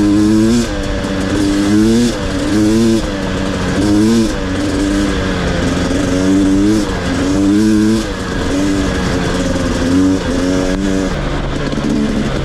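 Two-stroke dirt bike engine under way on a trail, the rider working the throttle so the revs climb and fall again and again, roughly once a second, with wind noise.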